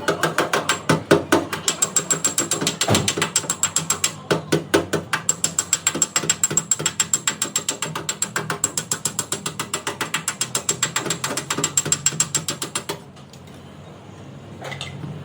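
Fast, even metallic clicking from a hand tool at work during paintless dent repair, several clicks a second with a thin high ring, stopping abruptly near the end.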